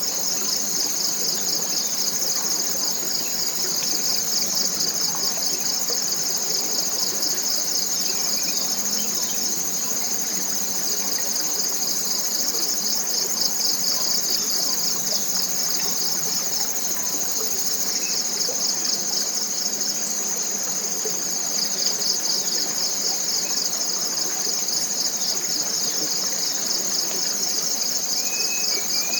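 Dense chorus of forest insects, a continuous high-pitched buzzing trill made of rapid, even pulses, steady throughout. A few faint bird chirps come in near the end.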